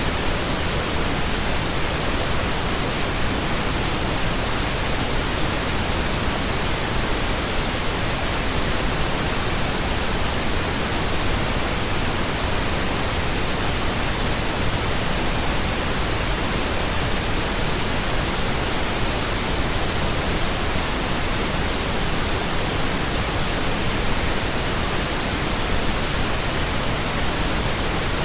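Steady pink noise: an even, unchanging hiss spread across the whole range of pitch, with no breaks or events.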